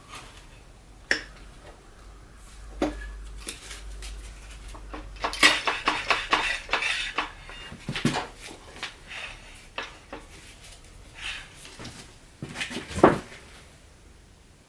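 Metal parts and tools clinking and knocking as they are handled on a workbench: scattered clicks, a quick run of clinks about halfway through, and one louder knock near the end.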